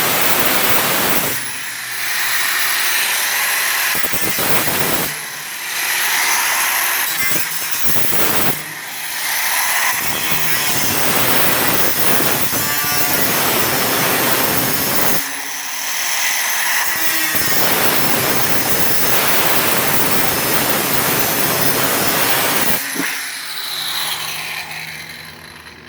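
Power saw cutting through a metal garage door panel, throwing sparks. It runs in long stretches with a few short pauses and trails off near the end.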